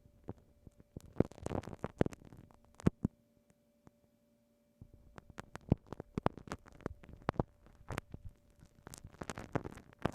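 Glue stick worked against a binaural microphone, giving close, sticky crackling and clicks in two bursts with a pause between them. A faint steady hum runs underneath.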